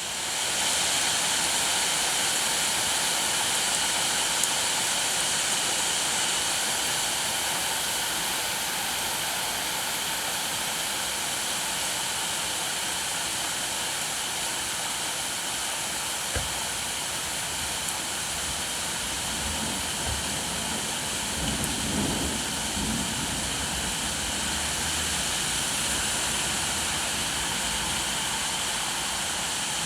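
Steady rainfall, an even hiss with no break. A low rumble joins about halfway through and swells briefly about two-thirds of the way in.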